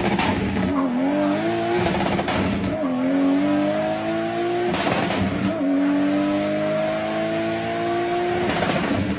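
A car engine pulling hard through the gears under load, its exhaust note climbing steadily in pitch and dropping back at each upshift, twice.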